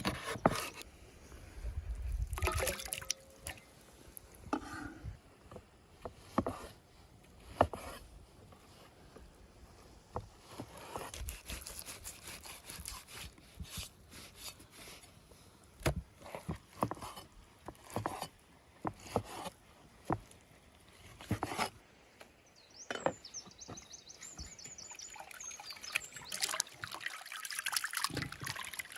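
Food being prepared: scattered knocks and clicks of utensils and meat being handled, with some liquid trickling.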